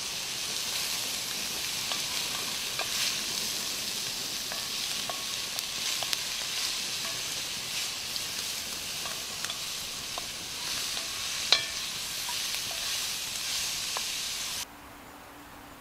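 Chopped onions and carrots sizzling in hot oil in a cast-iron Dutch oven, stirred with a wooden spoon, with small crackles and one sharp knock about two-thirds of the way through. The sizzle cuts off suddenly near the end.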